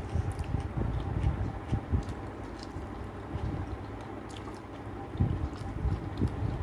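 A person chewing mouthfuls of rice and chicken curry eaten by hand, with soft wet mouth sounds and small irregular clicks, and fingers squishing through rice on the plate.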